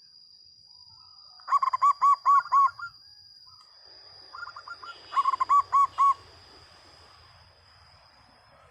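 Zebra dove (perkutut) cooing: two bouts of quick, evenly spaced coos, the first about a second and a half in and the second around five seconds in, starting with a few softer notes. A faint steady high whine runs underneath until near the end.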